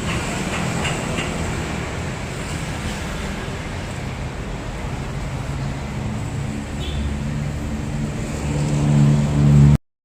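Benelli Motobi 200 Evo's single-cylinder engine running through an aftermarket exhaust, the revs and loudness rising near the end. The sound then cuts off abruptly.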